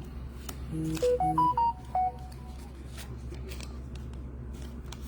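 A short electronic notification jingle: a quick run of several beep-like notes of different pitches lasting about a second, starting near the one-second mark. Faint clicks of trading cards being handled run underneath.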